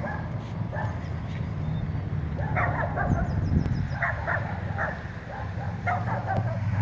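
Low steady engine rumble from a Kellison sports car approaching, growing louder near the end. Over it come short clusters of high yapping calls, repeated every second or two.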